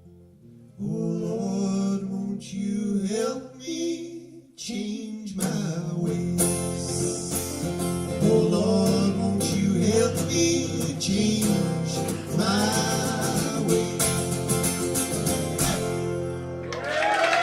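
Live acoustic guitar music with a melody line over the strumming, in the instrumental close of a folk-country song. Just before the end the audience starts cheering and whistling.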